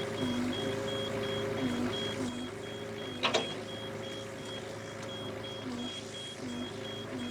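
Hitachi EX55UR mini excavator running, with a rapid, steady high-pitched beeping throughout and a lower tone that steps up and down in pitch as the controls are worked. A single sharp clank about three seconds in.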